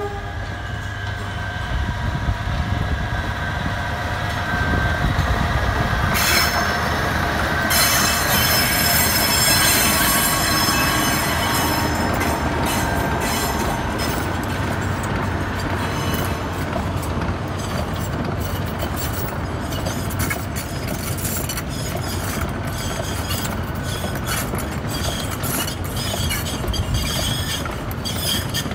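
Sugar cane train passing: a diesel locomotive and a long rake of loaded cane bins rolling by on a curve. High-pitched wheel squeal comes in about six seconds in, and rapid clicking of wheels over the rail joints follows through the second half.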